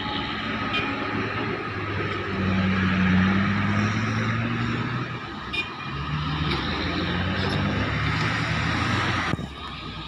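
Heavy diesel mining machinery running, its engine note rising and falling in pitch as it works, with a few faint clanks. The louder noise cuts off suddenly near the end.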